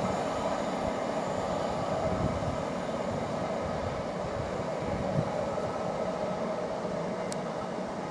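A train running on the line: a steady rumble and rail noise that eases slightly near the end, with one brief high tick near the end.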